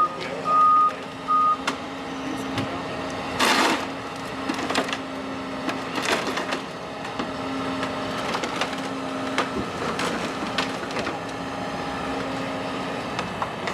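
Burnt timbers of an old wooden barn cracking and splintering as heavy demolition equipment tears the structure down, with repeated sharp cracks, the loudest about three and a half seconds in. The machine's diesel engine runs steadily underneath, and its reversing alarm beeps twice at the start.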